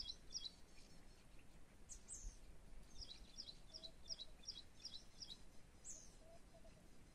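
Songbird calling: a quick high note repeated about three times a second, in a short run at the start and a longer run from about three seconds in, with a couple of short down-slurred calls between, over faint open-air background.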